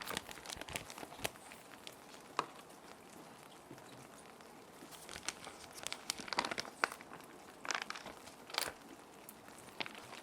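Plastic sheet protectors crinkling and rustling as paper sheets are slid in and handled, in irregular clusters of sharp crackles with a sparser stretch in the middle. Faint steady rain runs underneath.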